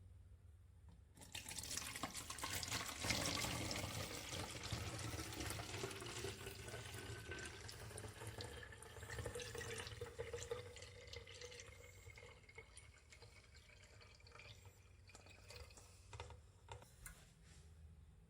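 Water running from a tap into a container, with a faint tone rising in pitch as it fills. The flow eases off about eleven seconds in, leaving a few drips.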